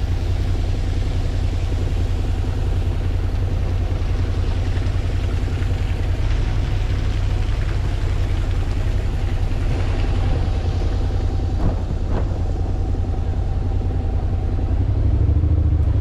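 Honda NC750X motorcycle engine running at a steady cruise, with heavy wind rumble on the bike-mounted microphone. The engine note holds steady, lifting slightly near the end.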